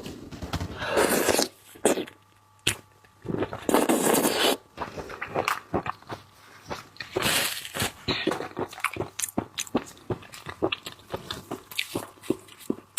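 Close-miked eating of raw seafood: wet chewing and many small mouth clicks, broken by three drawn-out noisy slurps in the first half.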